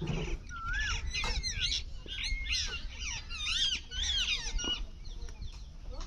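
Several parrots chattering, with many overlapping short whistled calls that swoop up and down in pitch, busiest in the middle and thinning out near the end.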